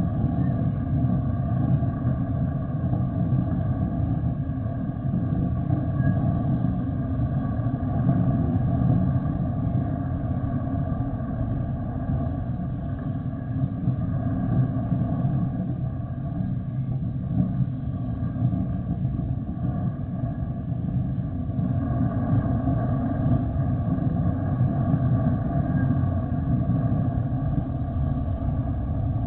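Jet airliner engines running: a steady low rumble with a few steady whining tones above it.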